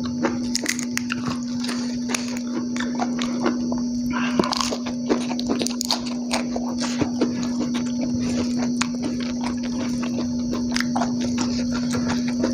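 Close-miked chewing and lip-smacking of a person eating rice and raw lettuce with his hands: many small wet mouth clicks and smacks, with a steady hum underneath.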